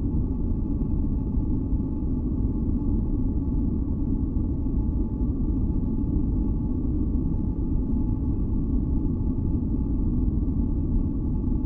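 Synthesized masking noise for sleep, deep and steady with nearly all of it low down, and a few faint high tones held underneath without change.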